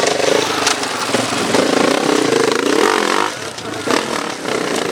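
Enduro motorcycle engine revving up and down under quick throttle changes, its note wavering, dropping back briefly partway through. There are a couple of sharp knocks.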